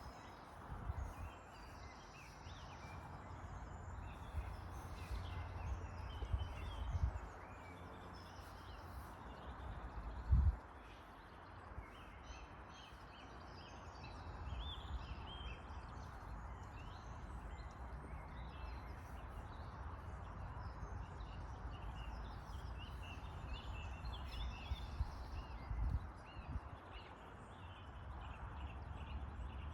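Birds chirping over a steady low rumble, with a single thump about ten seconds in.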